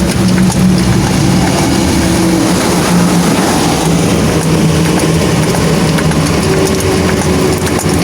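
A vehicle engine running with a steady hum that eases slightly in pitch about halfway through.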